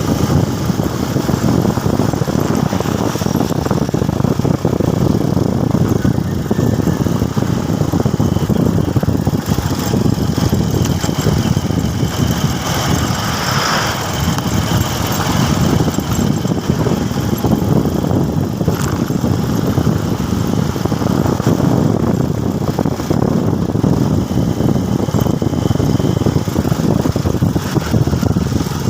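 Motorcycle engine running steadily while being ridden, a dense low rumble with no pauses.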